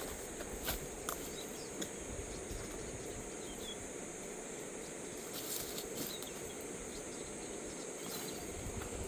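Outdoor insects giving a steady high-pitched drone over a low, even rushing noise, with a few short clicks and faint brief chirps.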